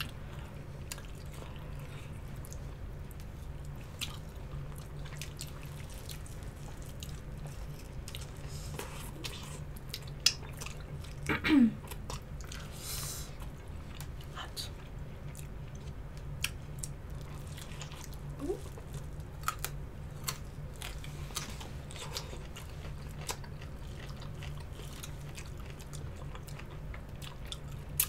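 Close-up chewing and mouth sounds of people eating chicken wings: small wet clicks and smacks scattered throughout, over a steady low hum. A brief hummed "mm" comes about 11 seconds in, and another short one a few seconds later.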